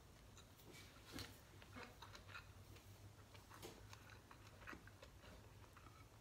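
Faint close-up chewing with the mouth closed: soft wet mouth clicks and a few small crunches, the clearest about a second in, over a low steady hum.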